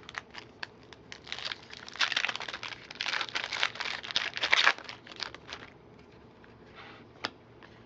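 Plastic wrapper of a trading-card pack crinkling as it is torn open and handled, in a dense run of crackles for several seconds, followed by a single sharp click near the end.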